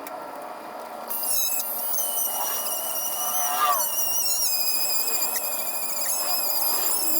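High-speed Dremel-type rotary tool whining as it cuts into a weld on the steel part, starting about a second in with a high, slightly wavering pitch.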